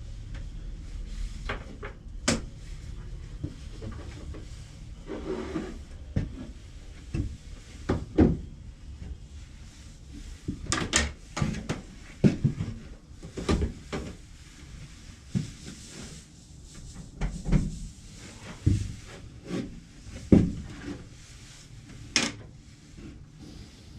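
Irregular knocks and clatter of cut cedar fence-picket pieces being handled and set down on a workbench, with some rubbing of wood on wood.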